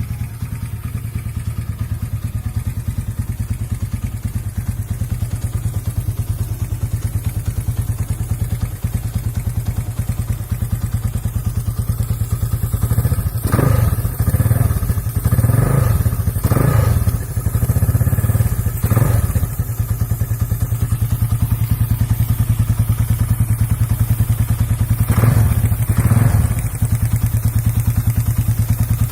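2000 Honda GL Max motorcycle's single-cylinder four-stroke engine idling steadily while warming up, revved briefly about four times midway through and twice more near the end.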